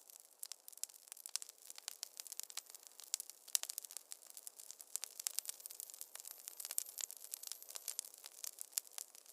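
Wood fire in a fireplace crackling: dense, irregular sharp pops and snaps over a faint hiss.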